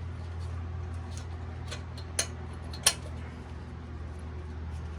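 Scattered light metallic clicks and clinks of hand tools on the strut hardware, with two sharper clinks a couple of seconds in, over a steady low hum.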